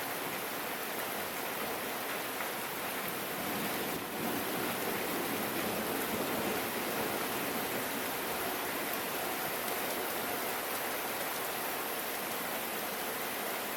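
Steady rain falling, an even hiss with no distinct events. It dips briefly about four seconds in and is a little louder after that.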